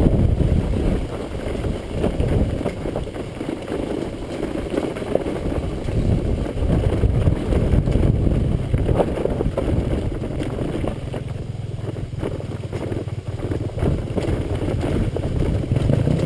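Dirt bike engine running during a ride, mostly buried under heavy wind buffeting on the microphone.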